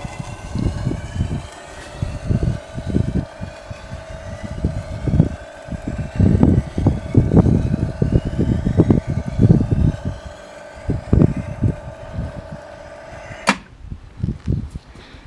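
Homemade electric pipe and profile bender running, its motor and drive giving a steady whine over irregular low thumps. The whine cuts off suddenly with a sharp click near the end as the machine is switched off.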